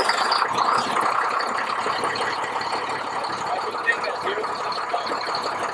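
Military 10-ton dump truck's diesel engine idling steadily just after being started.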